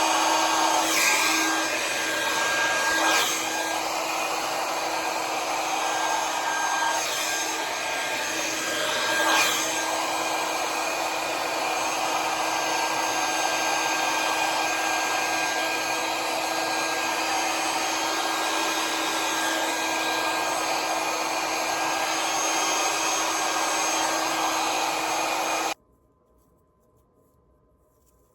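Conair hair dryer with a nozzle attachment blowing steadily on its motor hum, with a few brief surges in the first ten seconds; it is switched off suddenly near the end.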